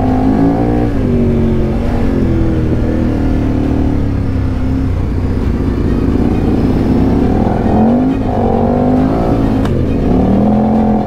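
Motorcycle engine running under way, its pitch rising and falling several times as the throttle opens and closes.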